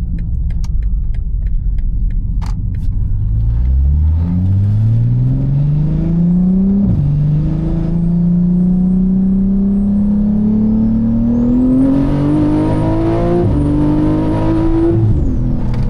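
Single-turbo BMW G80 M3's 3.0-litre inline-six pulled hard at full throttle, its pitch climbing through the gears. There are sharp drops at the upshifts, about seven and thirteen seconds in, and a faint high whistle rides over the top while it pulls. Near the end the throttle comes off and the engine note falls away.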